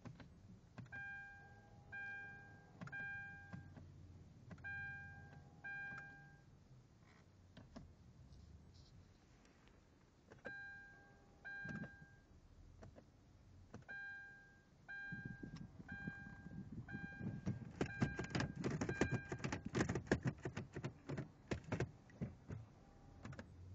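Hyundai Genesis Coupe's electronic warning chime beeping in short groups during a failed attempt to start the car. Partway through comes a long run of rapid clicking and rattling.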